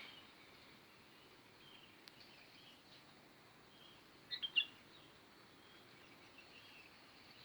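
Faint chirping of small birds, with a quick run of three sharp chirps about four and a half seconds in.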